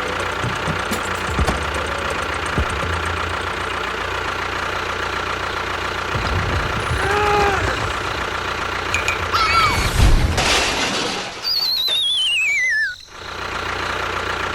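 A steady engine-like running sound with a constant whine, broken by a few short rising-and-falling pitched sounds. Near the end comes a loud warbling whistle that falls in pitch for about a second and a half and then stops suddenly, like a cartoon falling effect.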